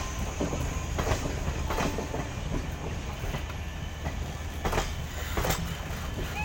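Passenger coaches of an Indian Railways express rolling slowly through a station, a steady rumble with the clack of wheelsets over rail joints coming in pairs, two pairs a few seconds apart.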